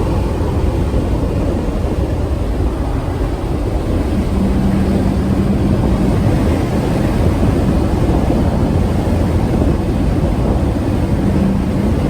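1992 BMW 535i's 3.5-litre straight-six driving at speed, heard from inside the car as a steady rumble of engine, road and wind noise. A low steady hum comes in about four seconds in and again near the end.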